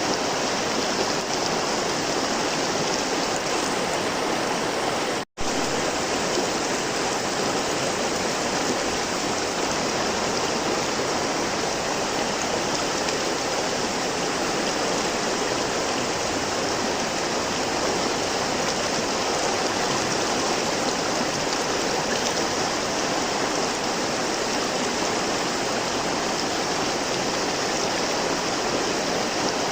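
Flowing river water rushing steadily, a dense even hiss of moving water. The sound cuts out completely for a split second about five seconds in.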